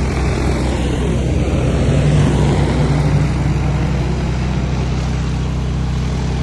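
A motor running steadily with a low hum under a wide rushing noise, swelling slightly about two seconds in.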